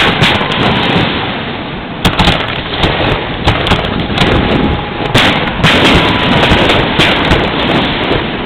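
Aerial fireworks going off in a dense, continuous barrage of overlapping bangs, with sharper loud reports right at the start, about two seconds in and about five seconds in.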